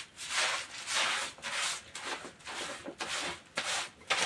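Broom scrubbing a washroom floor in quick back-and-forth strokes, about two scrapes a second.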